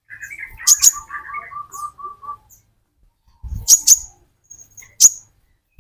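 Sunbird calling: a quick run of about eight even notes in the first two seconds, then sharp, high chip notes in pairs and singly. A short dull thump comes about three and a half seconds in.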